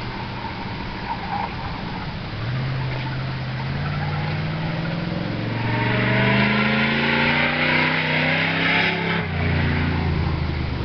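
Pontiac Grand Prix enduro car's engine accelerating under load, its pitch climbing steadily for several seconds. Near the end the note drops suddenly as the automatic transmission shifts up.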